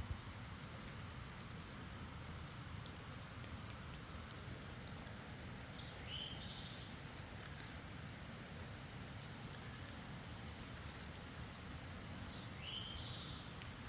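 Steady faint outdoor hiss like light rain or dripping, with a bird singing a short two-part phrase, a rising note then a higher level whistle, twice, about six seconds apart.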